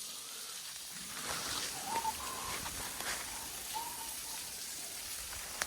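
Steady hiss of falling water from a small waterfall, with a few crunching footsteps on leaves and rock.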